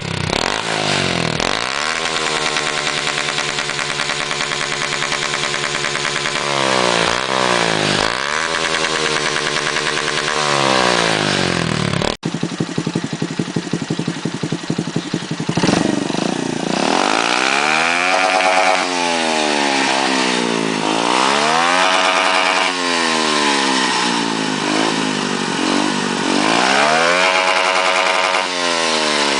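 Small-displacement motorcycle engine revved up and held at the rev limiter twice, dropping back in between. About 12 seconds in it cuts to another small motorcycle, which idles and is then revved up and let fall three times.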